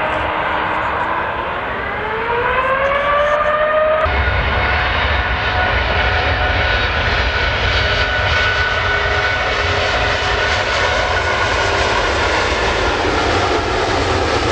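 Jet airliner engines with a whine that rises in pitch over a couple of seconds, then from about four seconds in a loud, steady roar with a deep rumble under it.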